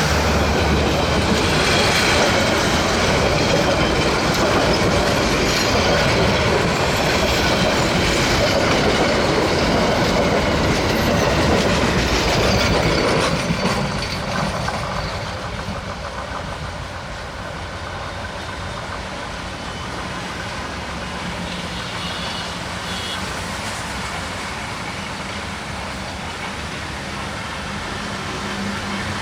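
Upaban Express passenger train with its Iranian-built coaches running over the track, wheels clacking on the rails. The noise is loud at first, then drops sharply about halfway through and continues more quietly.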